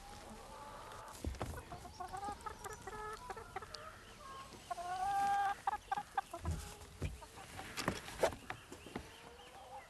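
Domestic hens clucking and calling, the loudest call about five seconds in. A run of sharp knocks and thumps follows in the second half.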